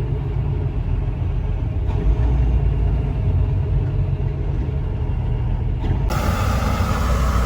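Semi truck's diesel engine running with a steady low rumble. About six seconds in the sound changes abruptly and a bright hiss joins the rumble.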